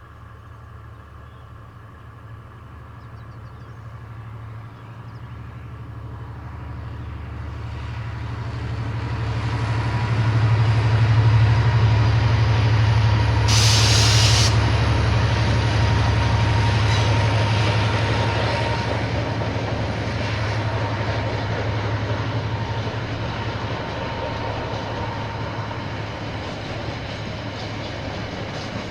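KiwiRail diesel train passing: the locomotive's low engine drone grows louder to a peak about eleven seconds in. A brief sharp high-pitched burst comes about fourteen seconds in, then the rumble of the wagons rolling by slowly fades.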